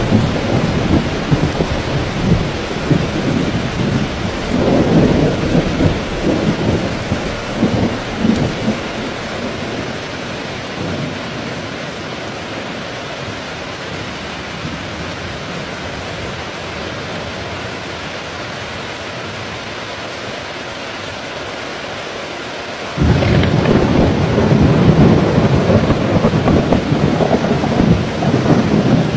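Steady rain falling, with thunder rumbling through the first several seconds and then dying away to rain alone. About three-quarters of the way through, a sudden loud crack of thunder breaks in and keeps rumbling over the rain.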